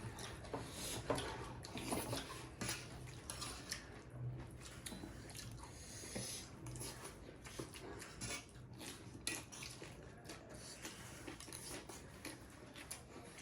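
Eating at a table: scattered light clicks and clinks of plates and utensils as buff curry and rice are eaten.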